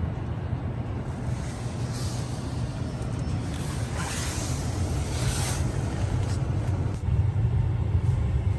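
Steady low rumble of a car's engine running, with a few short hissing whooshes over it.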